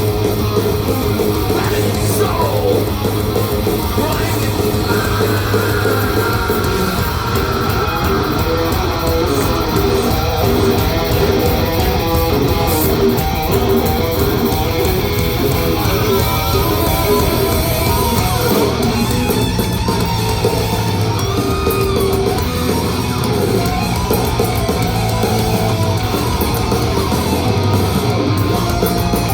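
Heavy metal band playing live: loud distorted electric guitars over bass guitar and drums, with a few sliding guitar notes.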